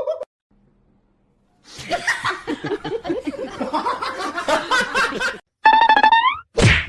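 People laughing for about four seconds, in quick choppy bursts. Near the end comes a short high-pitched call that slides up in pitch, followed by a loud sudden sound.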